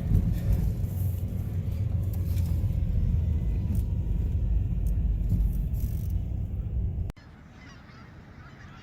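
A loud low rumble that stops abruptly about seven seconds in, followed by geese honking faintly.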